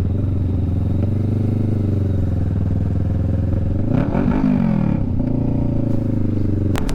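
Motorcycle engine running steadily while riding. A second engine note rises and falls briefly about four seconds in, and there is a sharp click near the end.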